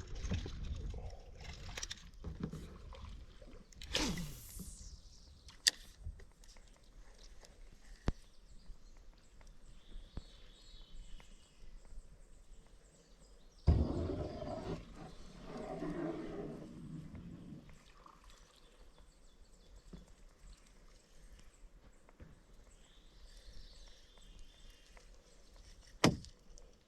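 Kayak on the water between words: scattered light knocks and water sounds from the paddle and plastic hull, with a louder, longer noise starting suddenly about fourteen seconds in.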